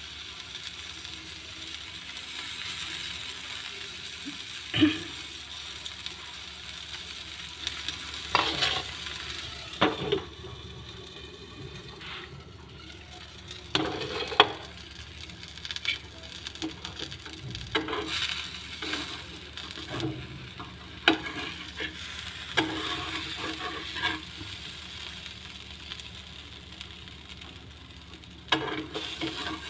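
Besan uttapam frying in oil in a nonstick pan, a steady sizzle, with a metal spatula knocking and scraping against the pan now and then.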